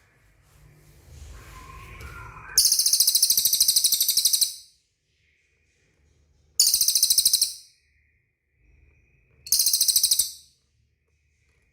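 A cililin songbird singing three loud, very high, rapidly pulsing buzzy trills: the first about two seconds long, the next two about a second each, with faint softer chirps before the first.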